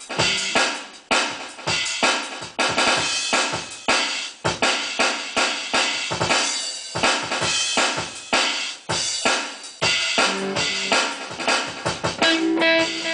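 Drum kit played fast, a dense run of snare, bass drum and cymbal hits. Held pitched notes come in near the end.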